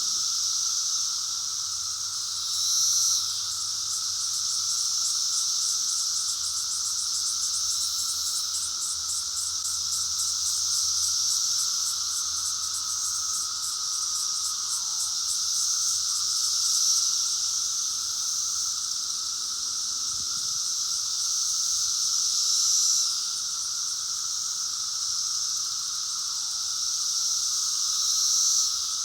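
Chorus of thousands of male 17-year periodical cicadas singing to attract females, a very loud continuous high buzz with a steady lower droning tone beneath it. It swells several times, and now and then a call ends in a short falling slur.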